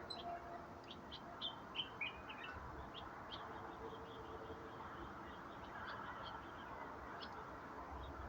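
Several small birds chirping and calling on and off, short high notes scattered over a steady background hiss.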